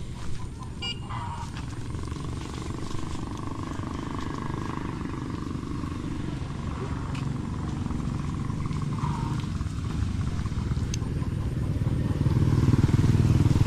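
A vehicle engine running with a low hum, growing louder over the last couple of seconds as it approaches.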